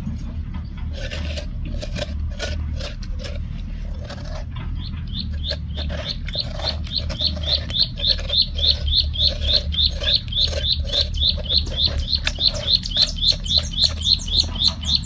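A bird calling in a long run of short, high chirps, about three a second, starting a few seconds in and getting louder. Under it, a spoon scrapes and squishes soft watermelon flesh inside the hollowed rind.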